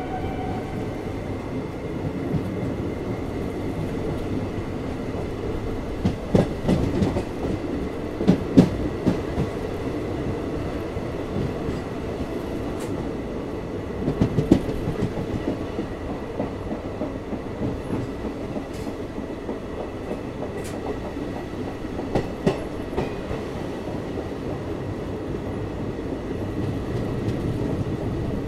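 Passenger coach running at speed through a station, heard from its open doorway: a steady rumble and rush of wheels and wind, broken by clusters of sharp clacks as the wheels cross rail joints and points, about six to nine seconds in, again near the middle and once more later.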